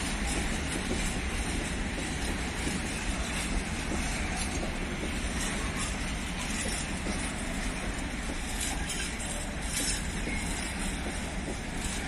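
A train running past on the track, a steady rumble of wheels on rail.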